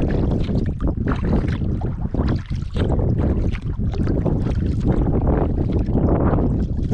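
Wind buffeting the microphone in a steady low rumble, with irregular splashes of water from kayak paddle strokes.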